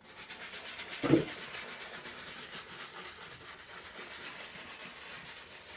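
Soft-bristle shoe brush scrubbing a sneaker upper with cleaning solution: quiet, quick back-and-forth strokes, several a second, with a short low bump about a second in.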